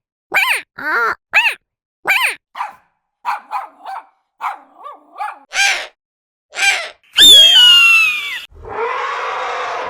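Animal calls: a quick series of short, yelping calls that rise and fall in pitch, then a loud screech sliding downward about seven seconds in, followed by a harsher, drawn-out call.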